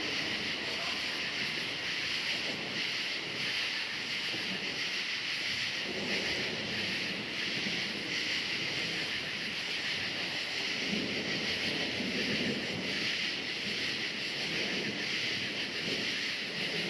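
Crickets chirring in a steady dense chorus, with low rolling rumbles of distant thunder swelling about six seconds in, again around eleven seconds, and near the end.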